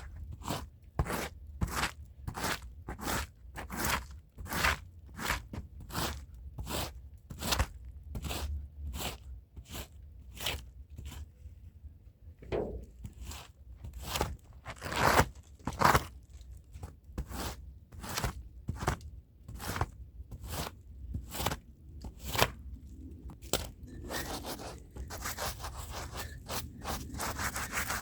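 Hand brush scrubbing a rug's pile in steady back-and-forth strokes, about two a second. In the last few seconds it changes to faster, continuous rubbing.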